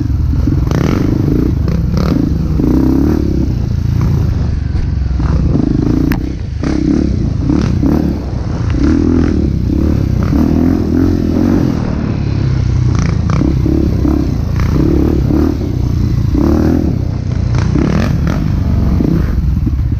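Trail motorcycle engine running under load, its rumble rising and falling, with frequent knocks and rattles.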